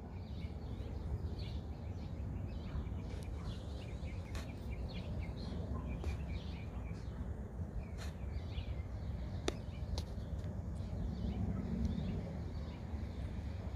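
Birds chirping over and over above a steady low rumble, with a few sharp clicks here and there.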